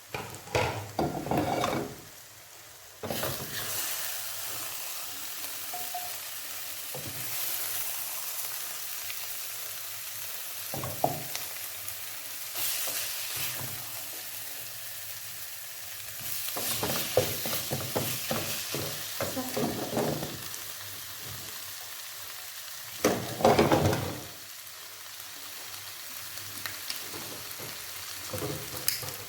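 Filling sizzling steadily in a hot frying pan, the sizzle starting suddenly about three seconds in, while a spoon scrapes and stirs it in several bursts.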